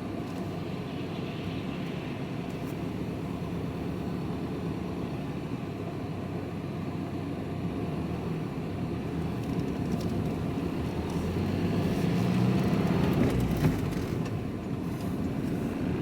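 Engine and road noise of a vehicle being driven, heard from inside the cab: a steady low rumble that grows louder about three quarters of the way through, then eases off.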